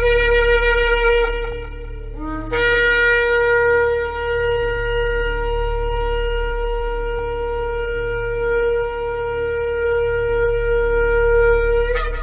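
Shofar blown. One blast fades out about two seconds in. A short low note then slides up into one long steady blast of nearly ten seconds, which ends with a brief upward flick near the end. A steady low hum runs underneath.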